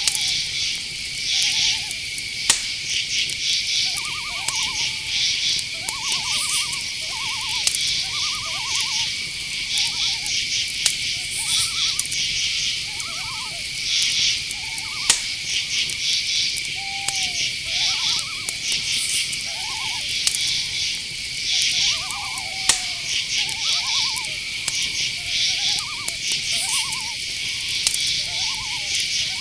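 Night chorus of crickets: a steady high trill with clusters of pulsed chirps above it. Many short, lower calls that rise and fall in pitch repeat every second or so through it, and a few sharp clicks stand out.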